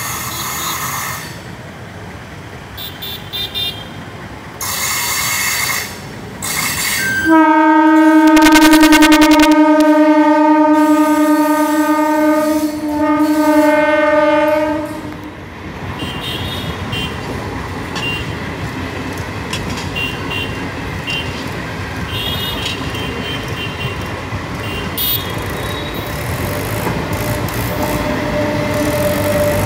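Passenger multiple-unit train sounding its horn in one long blast and a shorter second one, then its coaches rolling slowly past with steady rail noise and wheels clicking on the track.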